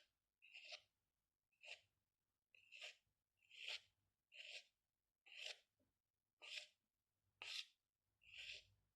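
Faint strokes of a pen on paper, about one short scratchy stroke a second, each lasting under half a second.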